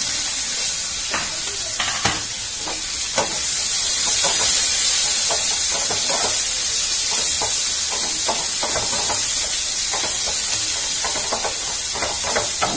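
Onion frying in hot oil with whole spices in a kadai, sizzling steadily while it is stirred, the utensil scraping the pan in many short strokes.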